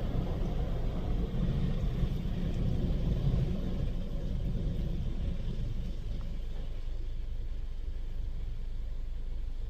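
Istobal M'Wash 3 rollover car wash heard from inside the car as its brush wash ends: a low mechanical rumble, busier for the first few seconds, then easing to a steadier hum.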